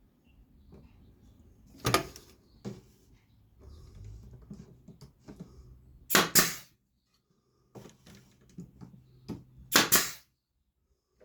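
Brad nailer firing five sharp shots into wood: one about two seconds in, then two quick pairs. Quieter knocks of wood pieces being handled fall between the shots.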